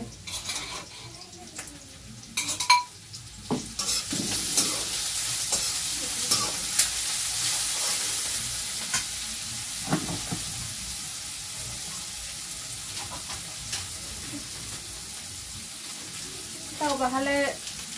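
Food frying in hot oil in a pan on a gas stove. A sizzle starts about four seconds in after a few clinks of utensils, is loudest soon after, and slowly dies down.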